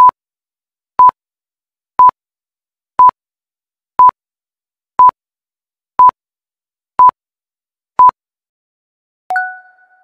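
Electronic quiz-timer beeps: short beeps at one steady pitch, once a second, counting off the seconds allowed for answering. Near the end a single two-tone ding rings and dies away, signalling that time is up and the answer is revealed.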